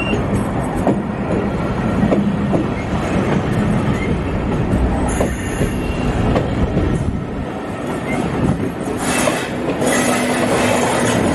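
Passenger train coaches rolling past at close range: a steady rumble of steel wheels on the rails, with scattered clicks over rail joints and a few brief high wheel squeals.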